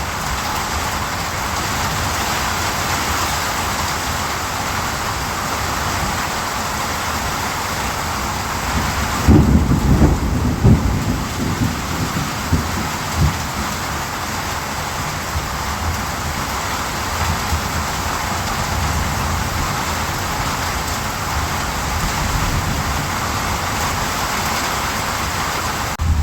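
Steady rain, with a low rumble of thunder about nine seconds in that rolls on for around four seconds.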